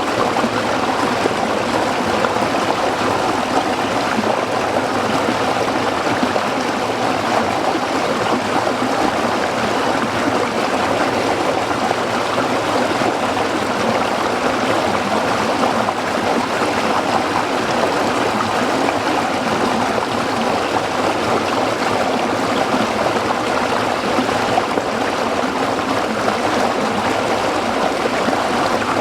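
Small stream flowing over rocks, a steady rushing and trickling of water.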